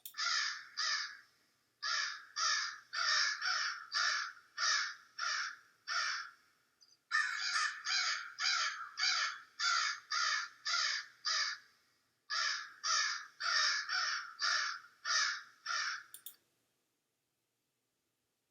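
Crow cawing over and over in quick runs of harsh caws, about two a second, with short pauses between runs; the calling stops about sixteen seconds in.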